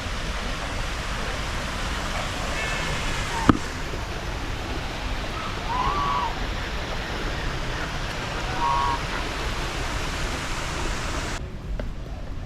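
A steady, even rushing noise like falling water, with a few short pitched calls and a single sharp click about three and a half seconds in. The rushing cuts off suddenly near the end.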